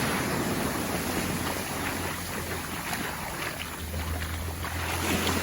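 Ocean surf washing onto a beach, with wind rumbling on the microphone.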